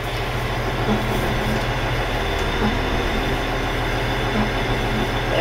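Caterpillar 980G wheel loader's diesel engine idling steadily while the machine stands in park, heard from inside the cab.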